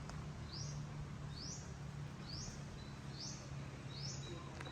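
A bird giving a short, high, rising chirp over and over, about once a second, over a steady low hum.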